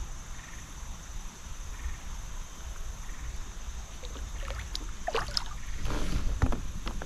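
Water sloshing and splashing against a kayak, with light knocks on the hull. The splashes and knocks start about four seconds in and grow louder toward the end.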